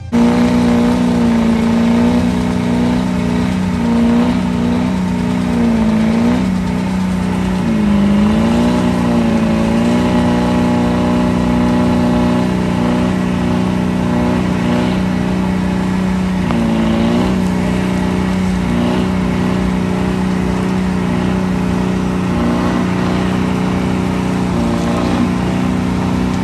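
Truck engine held at high, steady revs, its pitch dipping and recovering briefly a few times.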